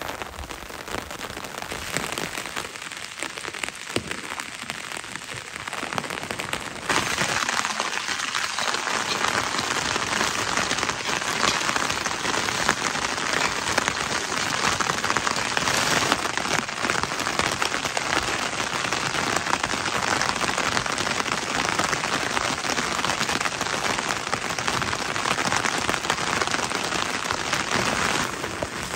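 Steady rain falling, a dense even patter that grows clearly louder about seven seconds in and then holds steady.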